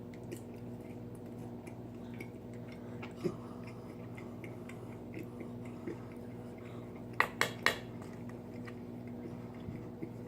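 Quiet mouth sounds of someone chewing a Carolina Reaper pepper, with faint scattered clicks, over a steady low hum. About seven seconds in come three sharp clicks or taps in quick succession.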